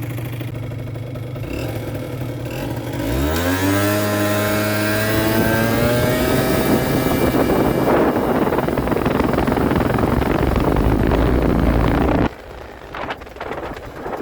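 Kymco Super Fever ZX 50cc two-stroke scooter engine running steadily, then revved up sharply about three seconds in and held at high revs, with the engine sound cutting off abruptly about twelve seconds in. The engine is being tested with the original airbox refitted, still showing the same uneven-running symptom that the owner puts down to running lean.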